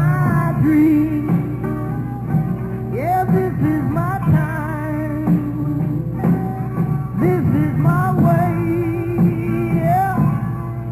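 Live rock band playing an instrumental passage in the middle of a song, with wavering, bending lead lines over bass and drums.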